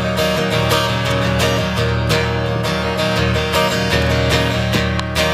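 Acoustic guitar strumming chords, played live: the instrumental close of a country rock song after the last sung line.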